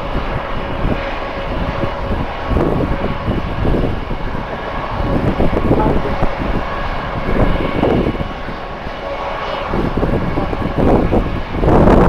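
Jet airliner engines running with a steady whine, under gusty wind buffeting the microphone in surges.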